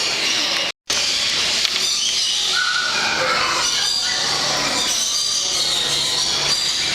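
Many birds calling and screeching at once, a dense, steady, high-pitched din, broken by a split-second gap just under a second in.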